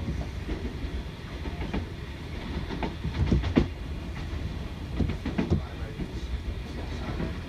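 Moving electric commuter train heard from inside the carriage: a steady low rumble of wheels on rails with irregular clicks and knocks over rail joints, bunched about three seconds in and again about five seconds in.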